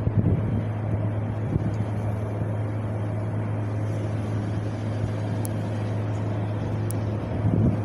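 Wind blowing steadily as a low rumbling hiss, with gusts swelling briefly at the start and again near the end.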